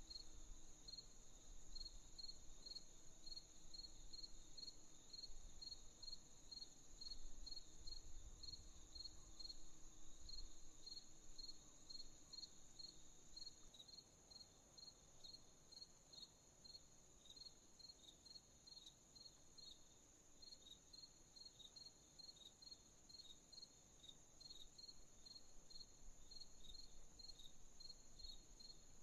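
Night insects: crickets chirping in a steady rhythm of about two chirps a second over a continuous high insect trill.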